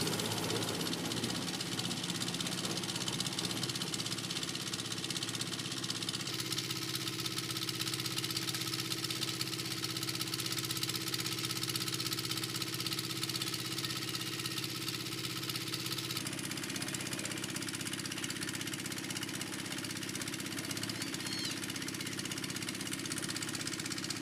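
A machine running steadily, its tone changing about six seconds in and again about sixteen seconds in.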